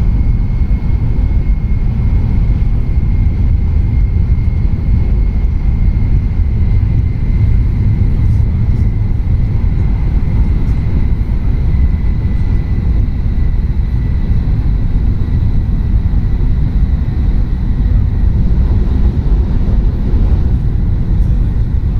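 Tohoku Shinkansen train running at speed, heard from inside the passenger cabin: a steady, dense low rumble with a faint high whine over it.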